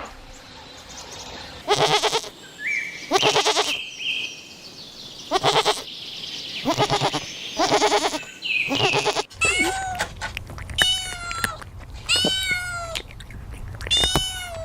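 Goats bleating, about six separate calls a second or two apart. About nine seconds in, this changes abruptly to a cat meowing repeatedly, in short calls that rise and fall in pitch.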